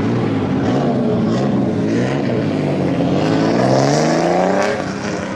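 Car engines revving as cars pull out, the pitch rising and falling, then one long climbing rev that drops off near the end.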